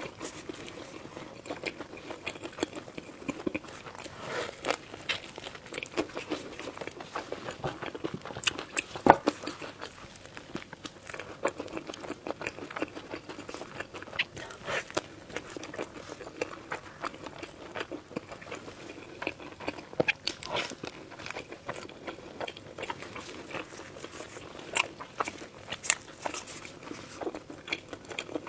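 Close-miked eating: repeated crunchy bites and chewing, with sharp irregular crunches throughout and the loudest one about nine seconds in.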